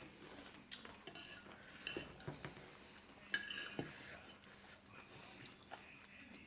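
Spoons and forks clinking against plates and bowls during a meal: scattered light clinks with a brief ring, the sharpest about three seconds in.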